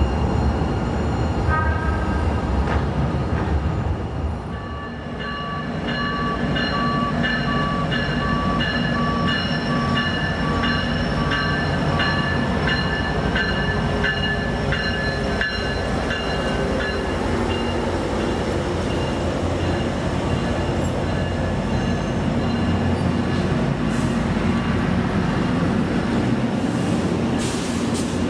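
A train rolling past on the rails with a steady rumble. A bell rings rhythmically, about once a second, starting about five seconds in and stopping a little past the middle.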